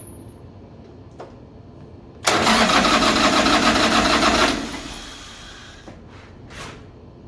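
Motorcycle engine being cranked by its starter for about two seconds, a fast pulsing churn that starts suddenly and then stops and fades out without settling into an idle. A short whoosh follows near the end.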